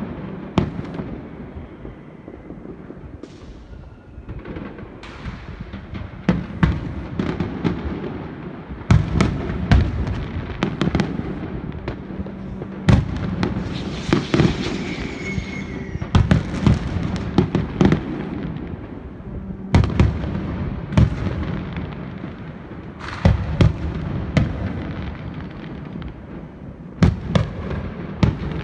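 Aerial fireworks display: shells bursting in quick clusters of sharp bangs over a continuous low rumble, with a stretch of dense crackling about halfway through.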